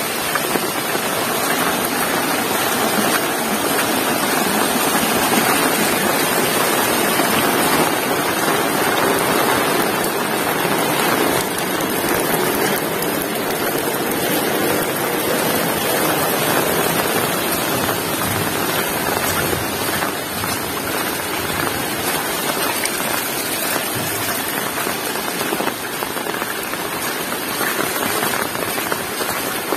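Heavy rain falling steadily, a dense even hiss of downpour with drops striking surfaces.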